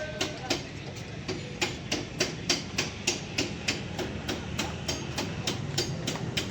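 Rapid, regular hammer blows on metal, about three a second, over a low steady hum.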